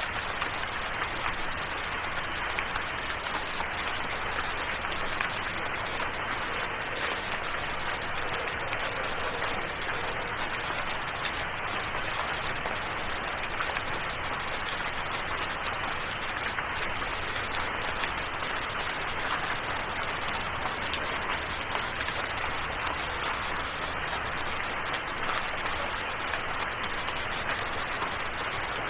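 Steady rainfall: an even hiss of countless drops pattering on a surface, unchanging throughout.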